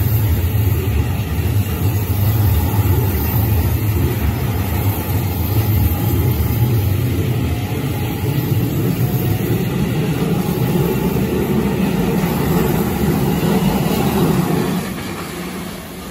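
Hokuso Railway 7500-series electric train running past close by, a steady loud noise of the train going over the rails. It fades about fifteen seconds in as the last cars go by.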